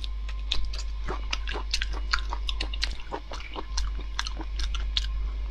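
Close-miked chewing with many short, irregular wet mouth clicks and smacks, over a steady low electrical hum.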